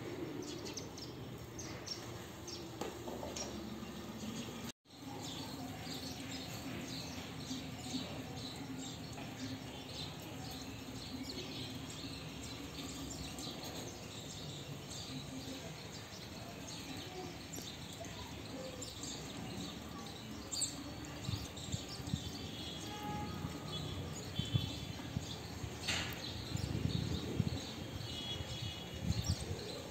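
Sparrows chirping in short high calls over a steady background hiss, the chirps coming more often in the second half. The sound drops out briefly about five seconds in.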